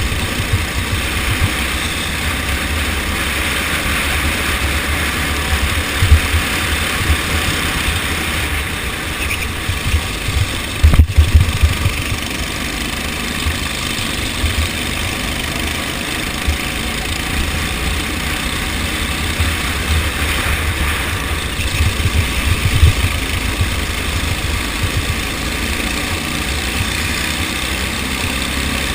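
Go-kart engines running during a race, a steady engine noise over a strong low rumble. A few louder thumps break through, the loudest about 11 seconds in.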